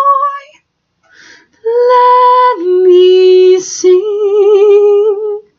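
A woman singing solo. A held note with vibrato ends, she takes a short breath, then sings the song's closing phrase: long notes with vibrato that step down in pitch and then back up.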